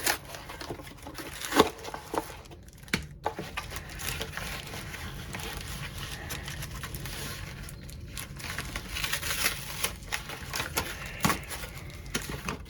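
Product packaging being unboxed: plastic wrapping and cardboard rustling and crinkling, with scattered sharp clicks and knocks as parts are handled.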